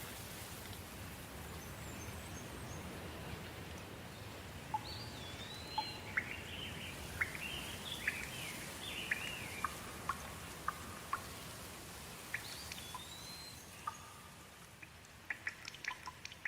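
Soft rain falling steadily, with birds calling over it through the middle; near the end the rain thins and sharp, separate drips take over.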